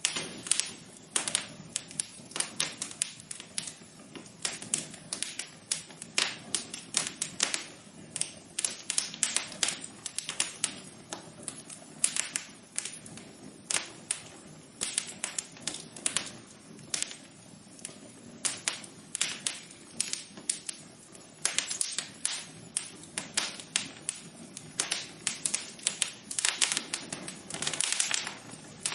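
Fireplace fire crackling: irregular sharp pops and snaps, several a second, over a steady low rustle of flames.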